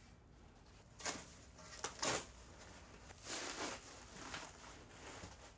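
Faint rustling and light knocks from parts and packaging being handled, in a few short bursts: about a second in, around two seconds, and a longer one a little after three seconds.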